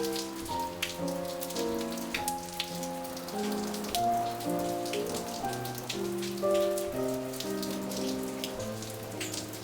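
Rain falling on a patio, with many sharp individual drop strikes, under slow, gentle music of sustained chords that change about every half second.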